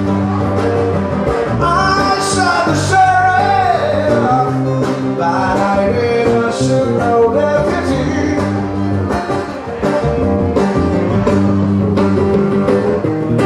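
A band playing a song: a sung vocal line over guitar, bass and a steady drum beat.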